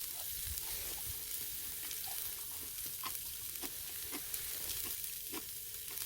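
Pork neck sizzling on a grill over a charcoal brazier, a steady hiss broken by scattered small pops and crackles.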